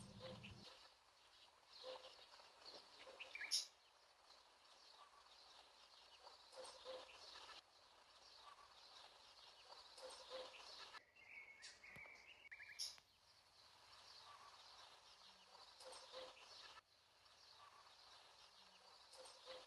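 Very faint outdoor background with scattered short bird chirps and a thin high hiss; no engine running is heard.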